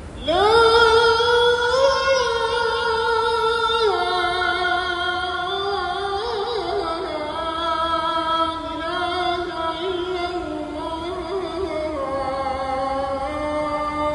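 A single voice singing a slow, ornamented chant in long held notes. It swoops up at the start, then steps down in pitch phrase by phrase.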